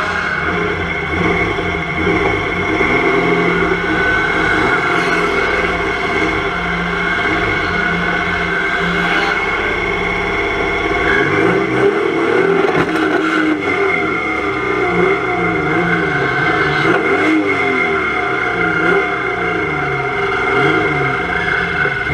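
Volvo 240 estate race car's engine, heard from inside the stripped cabin, running hard at fairly steady revs, then from about halfway rising and falling again and again as the revs go up and down.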